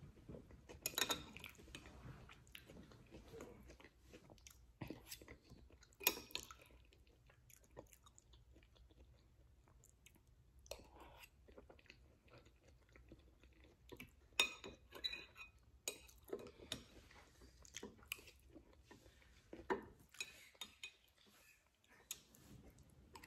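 Quiet chewing and mouth sounds of someone eating a soft vegan shepherd's pie, with short clicks and clinks of a metal spoon against a ceramic bowl scattered throughout.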